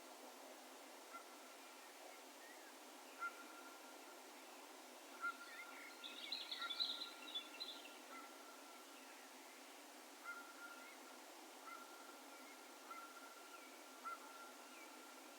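Distant bird calls in open country: a short, faint note at one pitch repeats every second or two, and a brief flurry of higher chirps comes about six seconds in. Under them runs a faint, steady hiss of outdoor ambience.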